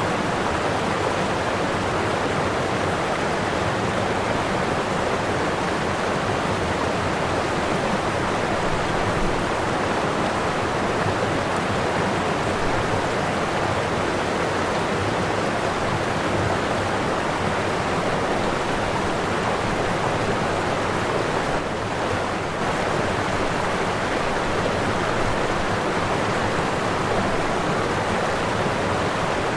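Waterfall: water falling and splashing in a steady, unbroken rush, with a brief slight drop in level about three-quarters through.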